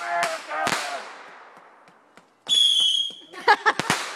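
Consumer fireworks: a couple of sharp cracks at the start, then a high steady whistle from a whistling firework about two and a half seconds in, ending in a quick string of sharp cracks.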